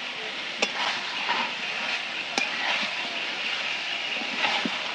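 Mutton and potato pieces sizzling steadily in a wok as they are stir-fried in oil and spices, with a metal spatula clicking against the pan twice.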